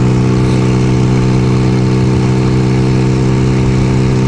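1975 Kawasaki KZ400S parallel-twin motorcycle engine running at a steady, unchanging speed.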